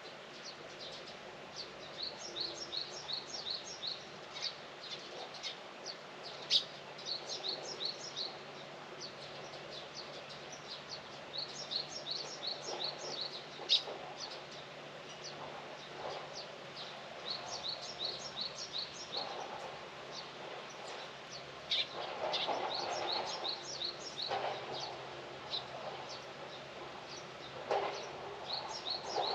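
A small songbird singing: phrases of quick, high chirping notes repeated every four to five seconds over a steady outdoor background. A low noise swells briefly about three-quarters of the way through.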